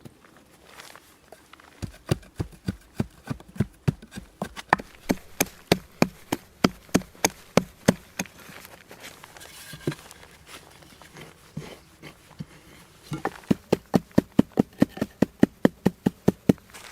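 A hand tool striking hard over and over, about three to four even blows a second, in two long runs with a pause of a few seconds between them.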